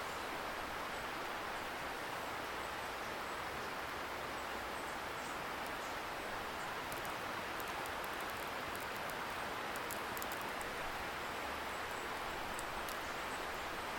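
Wood fire crackling with scattered small sharp pops, more of them in the second half, over a steady hiss of a distant river.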